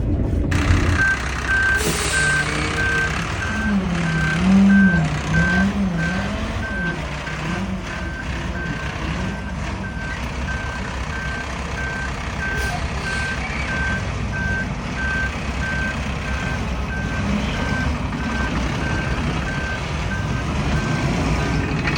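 Dump truck backup alarm beeping about twice a second, for nearly twenty seconds, over the steady rumble of a diesel truck engine. A low wavering tone rises and falls a few seconds in.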